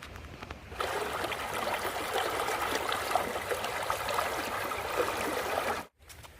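Running water gurgling and splashing, coming in louder about a second in and cutting off abruptly near the end; before it, a fainter patter like rain.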